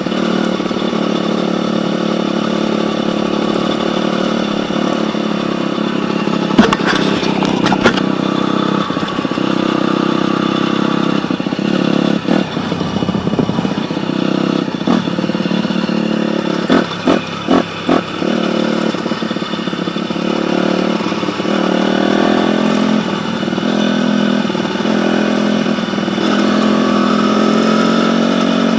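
Dirt bike engine running steadily, with a few sharp clicks about seven seconds in and several quick dips in the engine sound around seventeen seconds in.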